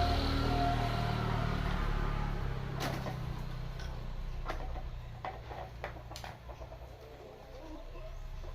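Low engine hum fading away over the first three seconds or so, with a few scattered light clicks.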